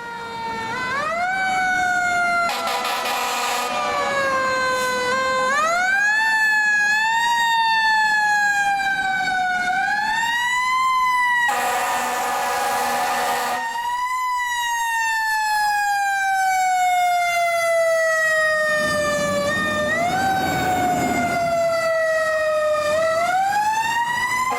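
A fire engine siren wailing, its pitch rising quickly and falling slowly over and over, with one long slow fall in the middle. Twice it is joined by a roughly two-second blast of a loud, harsh horn.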